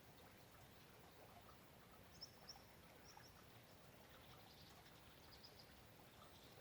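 Faint, steady patter of light rain, with a bird giving a few short high chirps about two to three seconds in and fainter chirps later.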